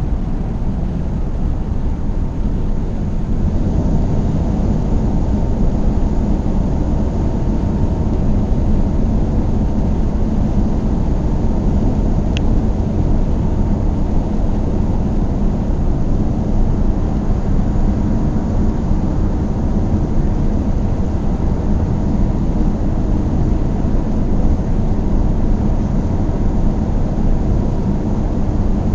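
A car driving at steady speed: a constant low rumble of engine and tyre noise that holds even throughout, with no acceleration or braking.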